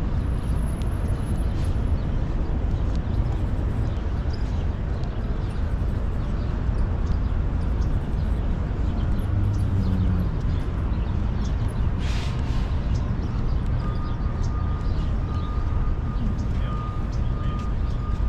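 Steady low rumble of city street traffic, with a thin steady high tone joining in about two thirds of the way through.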